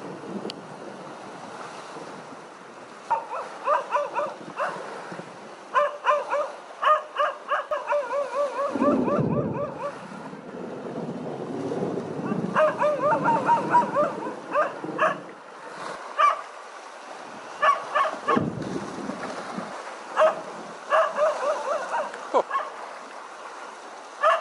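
A dog barking in repeated bursts of quick barks over the steady wash of surf, with two low rumbles, about nine and eighteen seconds in.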